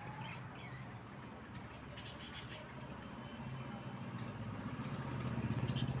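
Birds chirping, a quick cluster of high chirps about two seconds in and a brief one near the end, over a steady low hum that grows louder towards the end.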